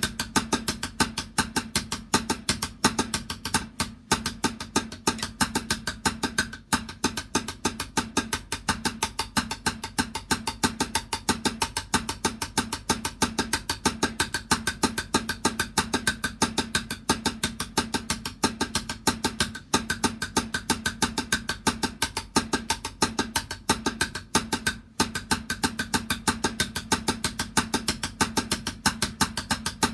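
A drum struck over and over in a fast, steady beat, about four strikes a second, with a few brief pauses.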